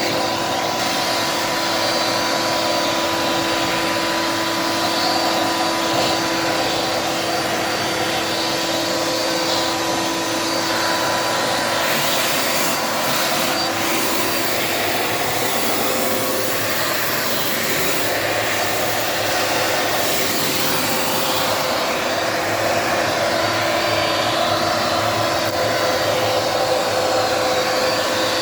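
Dirt Devil Multi-Surface vacuum cleaner running steadily with the brush attachment on, a steady motor whine over rushing air; the hiss shifts for several seconds around the middle as the brush is worked over the surface.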